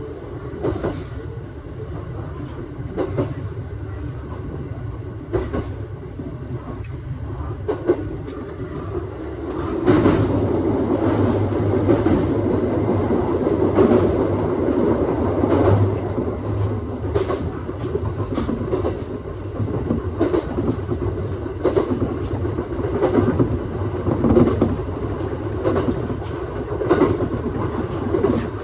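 Aoimori Railway 701-series electric train running along the line: a steady rumble of wheels on rail with irregular clacks over the rail joints, getting louder about ten seconds in.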